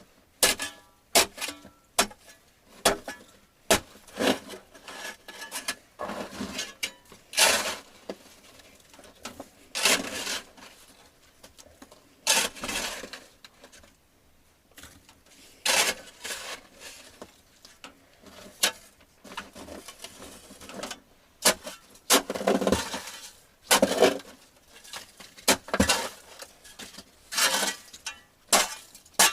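A run of irregular sharp knocks and clinks of hard objects striking, some a few per second and some with a short scraping or crunching tail, with gaps between.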